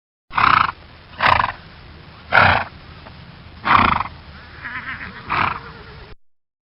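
An animal calling in short, loud cries, five of them about a second apart with a fainter one between the last two.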